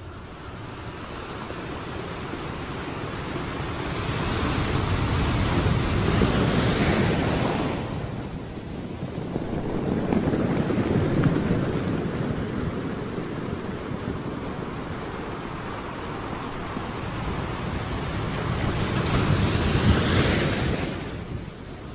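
Small waves breaking and washing in over shallow sand, a steady surf hiss that swells and falls as each wave comes in. It is loudest about six, eleven and twenty seconds in.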